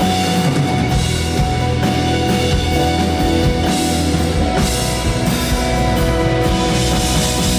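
Live band playing an instrumental passage of a song, with a full drum kit and guitar over sustained chords.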